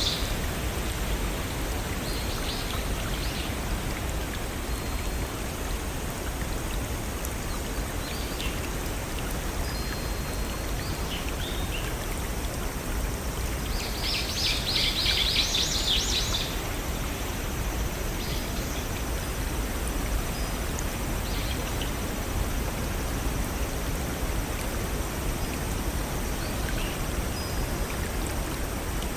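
A small stream and waterfalls run steadily, with birds chirping in short bursts over the water. The busiest bout of chirping comes about halfway through and lasts a couple of seconds.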